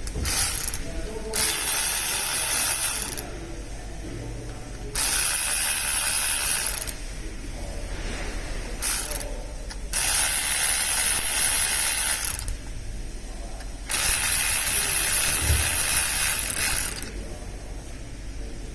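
Ratchet wrench working bolts loose on an engine being dismantled: four long spells of fast ratcheting, each about two seconds, and two brief ones, with pauses between.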